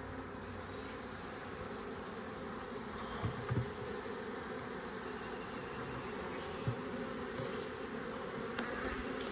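A swarm of honey bees buzzing, a steady even hum from a large, very active colony packed onto the frames of a swarm trap. A couple of soft thumps come about three and a half seconds in, and one more near seven seconds.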